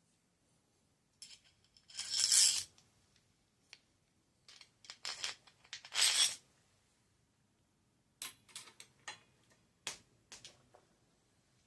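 Metal parts of a bicycle headset cup press clinking and scraping as they are handled and fitted. There are two longer rasping scrapes, about two and six seconds in, between scattered light clicks.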